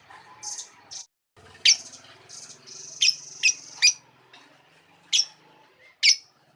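Lovebird calling: a series of short, sharp, high-pitched chirps, softer ones in the first second or two, then louder ones in quick succession, with two more single calls near the end.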